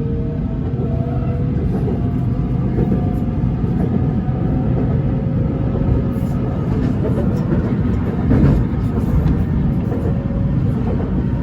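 BTS Skytrain electric train running, a steady rumble with a faint motor whine that rises slowly in pitch. There is a brief louder swell about eight and a half seconds in.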